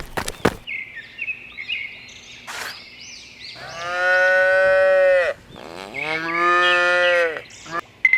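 Cow mooing twice, two long calls of about a second and a half each, one right after the other, the pitch dropping at the end of each.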